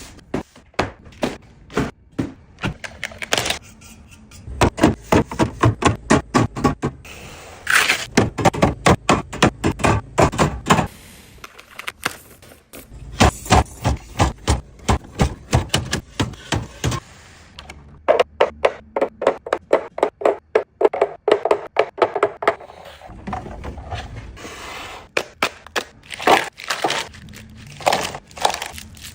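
Quick runs of clicks, taps and thunks as grocery items, containers and packaging are handled and set down while restocking a fridge, several knocks a second with short pauses between runs.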